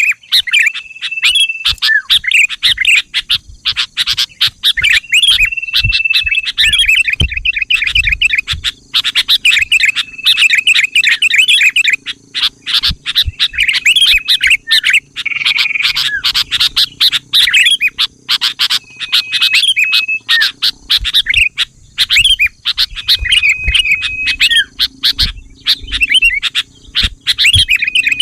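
Sooty-headed bulbul (kutilang) calling, as used for bird-lure recordings: a busy run of fast, loud chirps broken every few seconds by a short held whistle.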